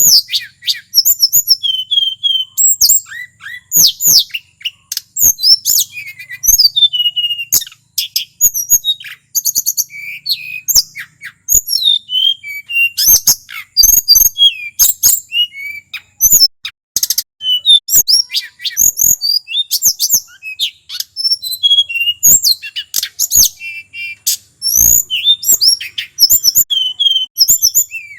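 Male tledekan gunung songbird singing a long, rapid, unbroken run of varied high chirps, whistles and trills with sharp clicking notes mixed in.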